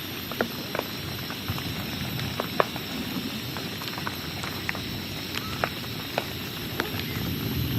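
Steady rain with scattered sharp drips and ticks landing irregularly, several a second.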